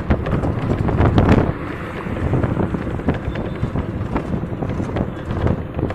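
A moving bus: steady rumbling road and engine noise with scattered knocks and rattles, and wind buffeting the microphone, loudest about a second in.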